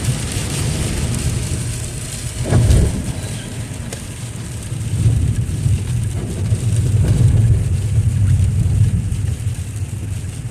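Heavy rain on a moving car, heard from inside the cabin: a steady hiss of rain over a low road and engine rumble, with a brief louder swell about two and a half seconds in.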